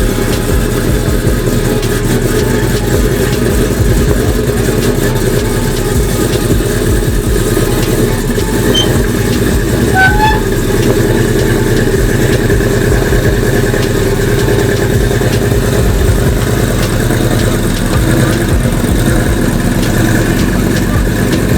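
A car engine idling steadily, a loud, even rumble.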